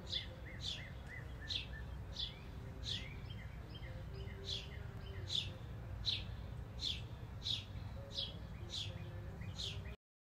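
A bird calling outdoors: a sharp, high note that falls in pitch, repeated about three times every two seconds, with a few fainter short chirps, over a low steady background rumble. It cuts off suddenly near the end.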